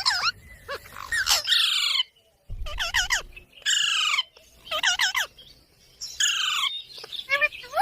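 Ringneck parakeet calling: a run of harsh, repeated squawks, each a quick series of falling notes about half a second long, with short chirps between them and a brief silent break about two seconds in.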